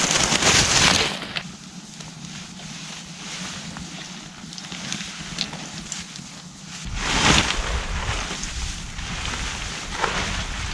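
Wind gusting over the microphone, swelling twice, once at the start and again about seven seconds in with a deep rumble, over a steady outdoor hiss.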